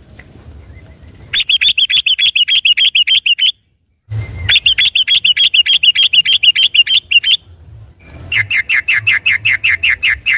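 Yellow-vented bulbul (trucukan) singing its rapid rolling 'ropel' song: three runs of fast repeated notes, about eight a second, each lasting two to three seconds.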